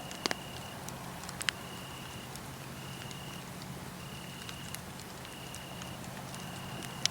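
Wood fire crackling, with a few sharp pops, the loudest near the start and just before the end. Crickets trill alongside it on one high, steady note, in trills of about half a second to under a second, roughly once a second.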